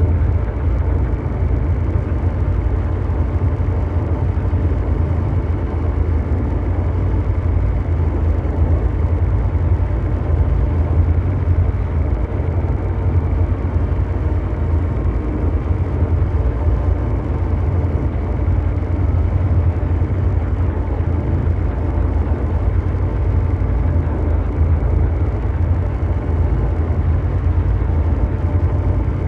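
Continuous mechanical drone noise: a steady, deep, engine-like rumble with a brown-noise hiss, heaviest in the low bass, and faint steady hum tones above it. It does not change.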